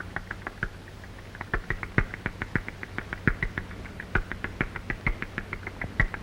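Rapid, high squeaky chirps from hungry baby barn owls begging for food, about four or five a second, with a short break about a second in. A steady low hum lies underneath.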